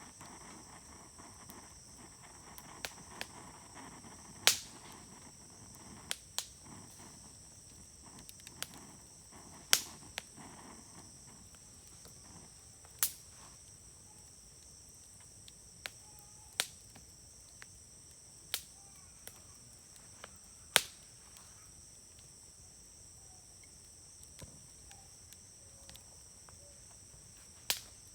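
A wood fire burning with a low hiss and sharp, irregular pops and cracks every second or few seconds, over a steady high trill of insects.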